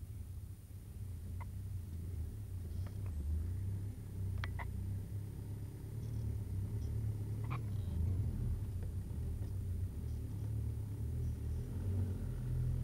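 Low, steady rumble of a car engine running, with a few faint clicks and knocks over it.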